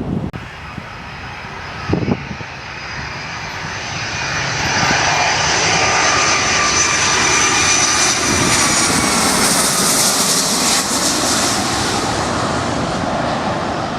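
Jet airliner's engines passing, the noise swelling to a peak in the middle and easing off near the end, with a high whine that slides slightly down in pitch. A brief knock sounds about two seconds in.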